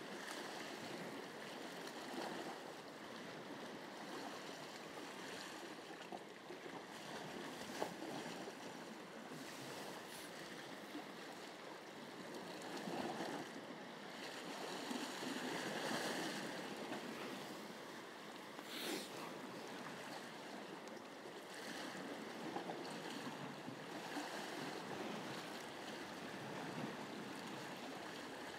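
Sea waves washing against shore rocks, rising and falling in slow swells, with a couple of faint sharp clicks about a third and two thirds of the way through.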